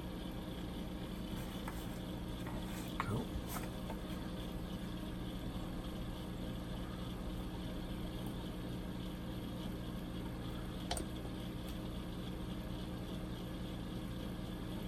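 Steady low electrical hum of the workroom, with a few faint clicks and taps from small plastic model-kit parts being handled.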